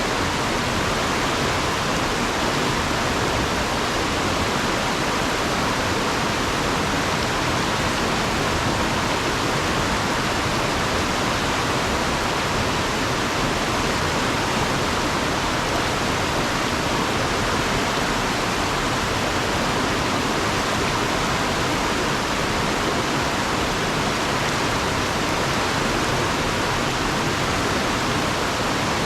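Fast river water rushing over and around rocks: a steady, unbroken rush.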